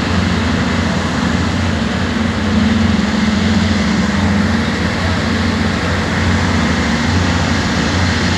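A motor running steadily: a low, even drone with a wash of noise over it.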